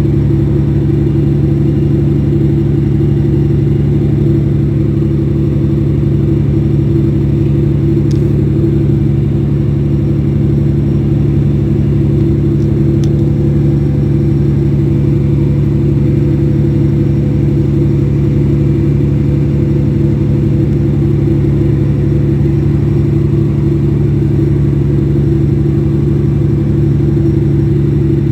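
Fishing boat's engine running at a steady speed, a loud, even hum that holds one pitch throughout.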